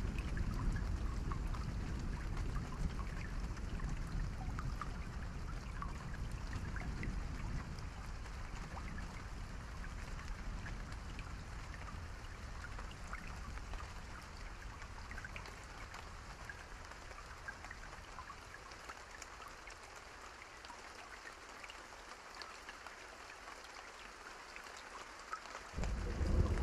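Steady rain falling, with scattered sharp crackles from a campfire. A low rumble fades away over the first half, and thunder breaks in suddenly, loud and low, just before the end.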